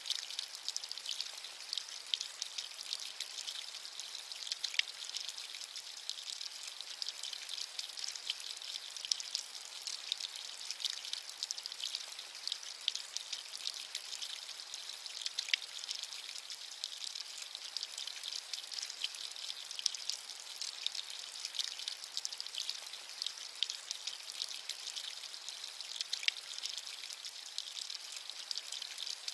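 Steady rain with a high hiss and many fine drop ticks, a few drops landing louder now and then.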